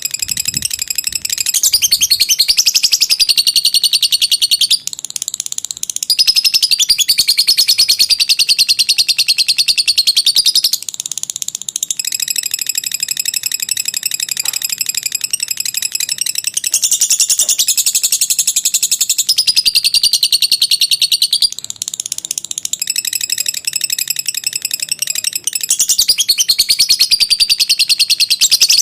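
Lovebird chattering in a long, unbroken run of very rapid high-pitched notes: the extended 'ngekek' song. The pattern and pitch shift every few seconds, with a few brief dips in loudness.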